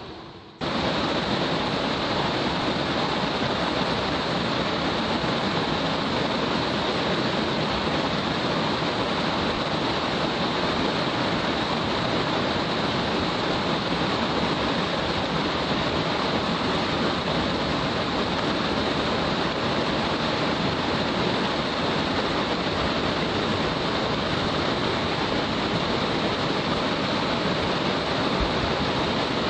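Rushing water of a mountain gorge stream with its cascades, a steady, loud, even rush that comes in suddenly about half a second in.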